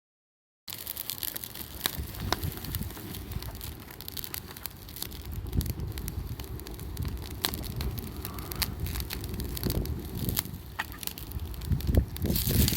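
Wood campfire crackling, with irregular sharp pops and snaps over a low steady rumble. The sound drops out completely for a moment at the start.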